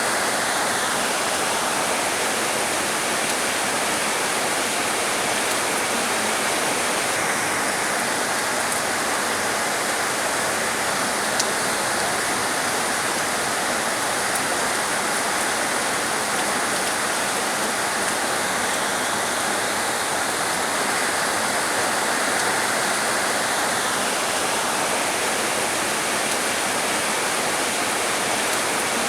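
Heavy rain falling steadily, a dense even hiss without let-up. One faint tick sounds about eleven seconds in.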